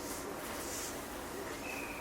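Running noise inside a JR West 227 series electric train's motor car on the move: a steady rush of wheels on rail. A short high tone sounds near the end.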